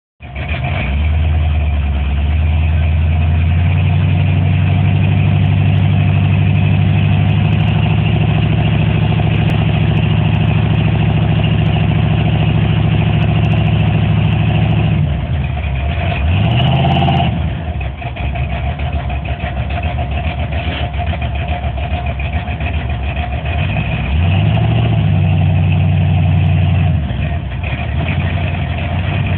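Engine and exhaust of a boxy 1980s full-size Chevrolet sedan running while parked. It is held at a raised, steady speed for the first fifteen seconds or so, then drops back with a quick rev up and down, runs at a lower idle, and is raised again for a few seconds near the end before settling.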